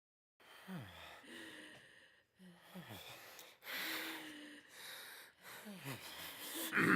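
Heavy, laboured human breathing: a run of voiced gasps and groaning breaths, each with a short falling tone, coming about once a second and loudest near the end.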